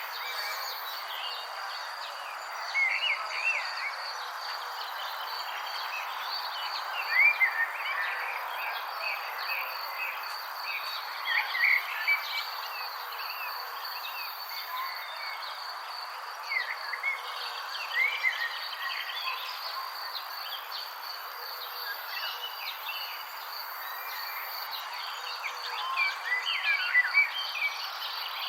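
Nature soundscape: a steady high insect trill over a constant hiss, with birds chirping in short calls every few seconds, most densely about a quarter of the way in, near the middle and near the end.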